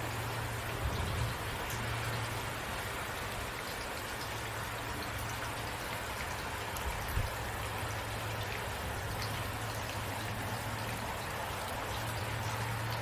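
Steady rain falling, with scattered drop ticks and a steady low hum beneath it; two brief low thumps, about a second in and about seven seconds in.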